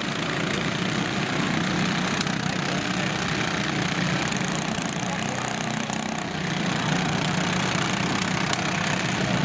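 Lawn tractor engines running steadily, with a brief dip in level about six seconds in.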